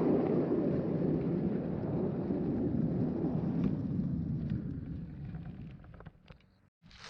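A steady low rumbling noise with a few faint clicks, fading away over the last couple of seconds and cutting off just before the end.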